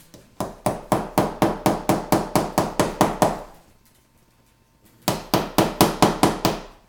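Hammer driving a finishing nail into a wooden beehive frame, nailing the bottom bar to an end bar: two runs of quick, even taps, about five a second, with a pause of about a second and a half between them.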